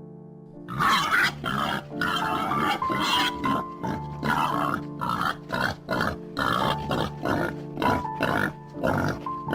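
An animal making short calls over and over, about two a second, over background music with a steady drone and a simple melody.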